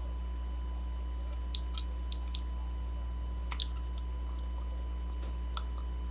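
Steady low electrical hum from a webcam microphone, with a handful of faint, short soft clicks scattered through it.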